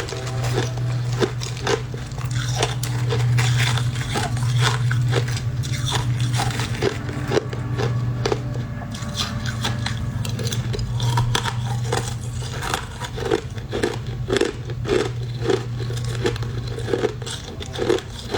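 Crushed ice being bitten and chewed close to the microphone: dense, irregular crunches one after another, over a steady low hum.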